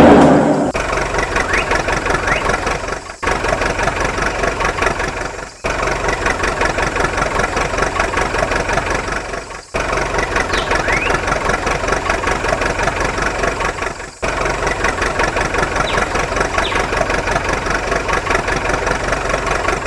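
An engine running at idle with a fast, even chugging pulse, cut off briefly four times as separate takes are joined.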